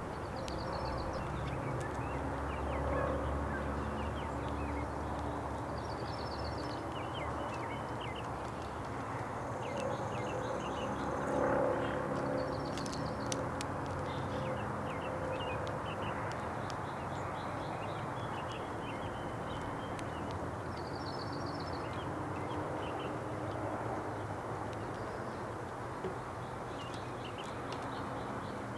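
Small birds giving short, rapid chirping calls every few seconds over a steady low hum.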